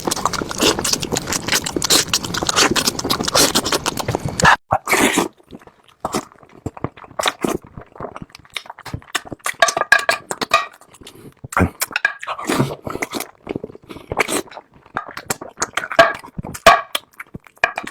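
Close-miked eating sounds of someone chewing barbecued meat: wet smacks, clicks and chews. For the first few seconds they are a dense, continuous crackle; after a short break about four and a half seconds in, they come as separate smacks and chews.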